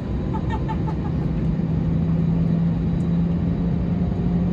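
Airbus A320neo jet engines heard from inside the cabin: a steady drone, with a low hum that comes in about a second in and holds steady.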